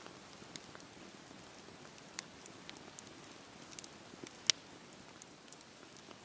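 Wood campfire crackling: scattered sharp pops and snaps over a soft steady hiss, with one loud pop about four and a half seconds in.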